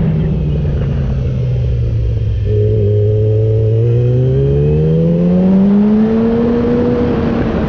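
Yamaha R6 motorcycle's inline-four engine, its pitch falling as the bike slows off the throttle, then rising steadily from about four seconds in as the rider accelerates, easing off again near the end.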